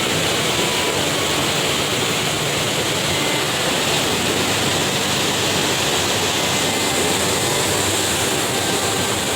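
Steady rush of floodwater pouring through a barrage.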